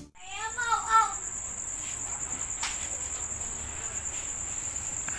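Steady high-pitched insect trill, like crickets, with a few short rising-and-falling calls in the first second.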